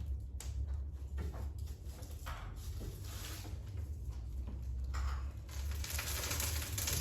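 Wood fire in a fireplace crackling and hissing, with scattered small cracks; the hiss swells and grows louder near the end.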